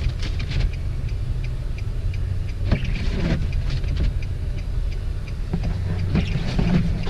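Steady low rumble inside a car's cabin: the engine idling while the car is held on the brake, with a few faint ticks and rustles over it.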